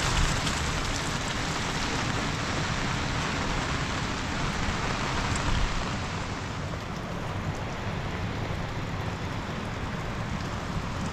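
Steady rain falling, easing off a little about halfway through.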